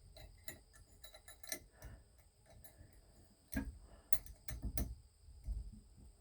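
Irregular sharp clicks and ticks of a tool and metal parts being worked on a Delta shower valve handle, with a louder run of clicks starting about three and a half seconds in.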